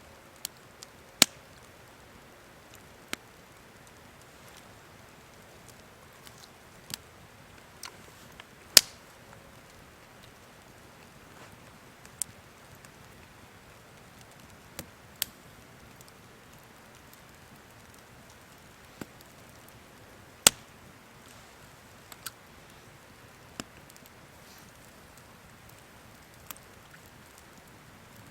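Wood fire crackling quietly, with sharp single pops at irregular intervals, the loudest about a third of the way in and again past two-thirds.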